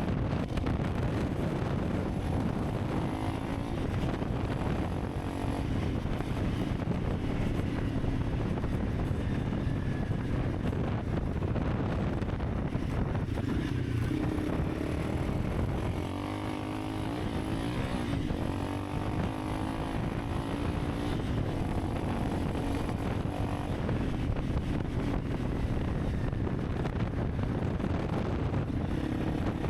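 Honda CRF300 Rally's single-cylinder engine running steadily while riding, with wind buffeting the microphone; about halfway through the revs dip and waver briefly before settling again.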